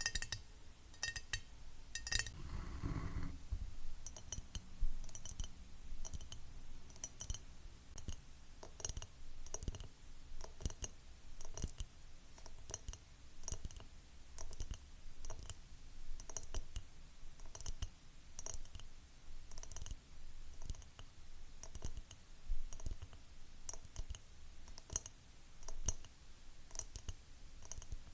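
Fingernails tapping on a glass item with short ringing clinks, then a soft low thump about two to three seconds in. After that come quick, irregular fingernail clicks and taps on another item.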